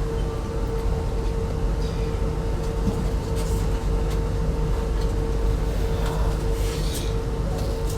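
Steady rumble of a running intercity passenger train heard inside a coach, with a constant electrical hum and a few faint clicks and rattles.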